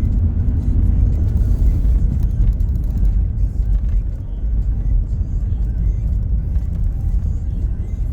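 Car driving: a steady, loud low rumble of road and engine noise.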